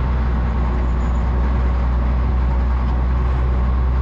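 Motor grader's diesel engine running steadily under load, a deep, even drone.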